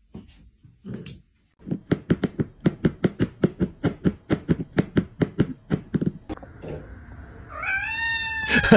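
A dog barking in a fast, even run of short barks, about five or six a second, for several seconds. Near the end there is one longer call that rises and falls in pitch.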